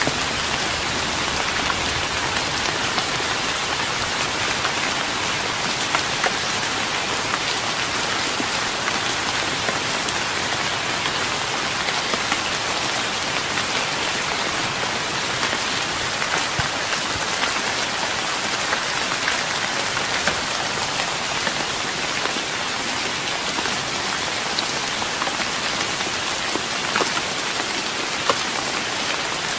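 Steady rain falling on a wooden deck, an even hiss with scattered individual drops ticking on the boards.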